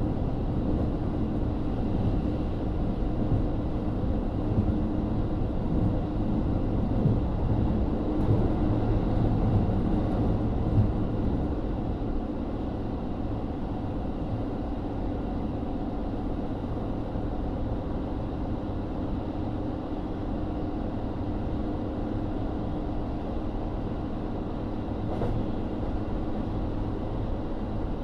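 JR KiHa 40 diesel railcar running, heard inside the car: a steady low rumble of its N-DMF13HZB diesel engine and wheels on the rails, a little quieter after about eleven seconds.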